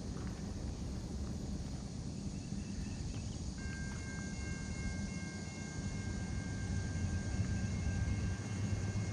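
Norfolk Southern diesel locomotives rumbling as the grain train draws near, growing louder toward the end. About three and a half seconds in, the locomotive air horn starts sounding one long steady chord of several notes.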